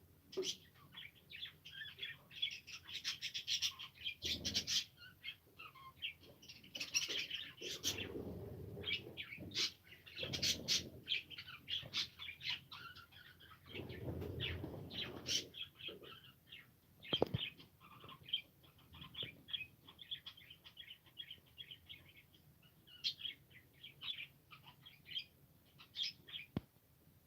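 Pet budgerigars chirping and chattering in quick, irregular bursts. A few louder bursts of wing flapping come in the first half.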